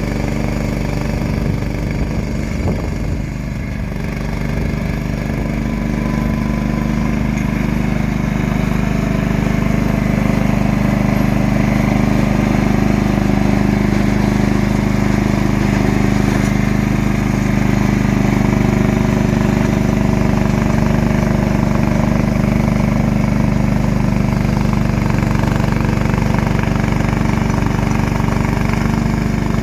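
John Deere tractor's engine running steadily at constant speed while working a snowblower, dipping slightly a few seconds in and then holding a little louder.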